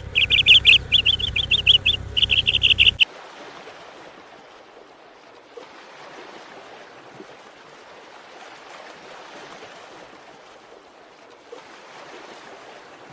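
A songbird singing loud, quick chirping phrases over a low rumble for about three seconds. It cuts off suddenly, leaving a faint steady hiss.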